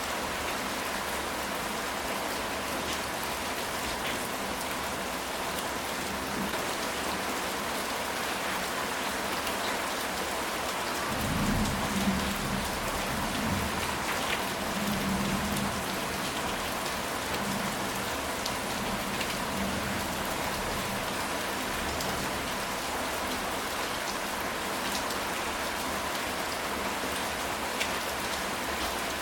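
Steady heavy rain falling on a ceramic tile roof, with single drops ticking. A low roll of thunder rumbles in about eleven seconds in and fades over several seconds.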